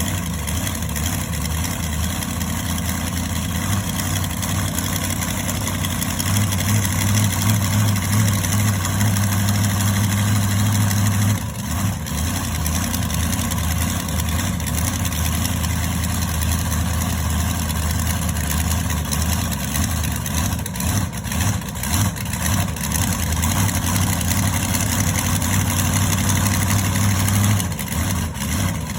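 Monster truck engine running at a low idle. Twice the note holds steadier and a little louder for several seconds, then drops back.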